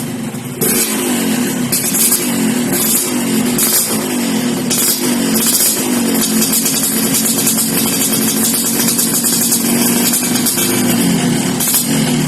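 Yamaha RX-King two-stroke single-cylinder engine breathing through an aftermarket racing exhaust, revved over and over in short rising blips with a hissing, crackling exhaust note.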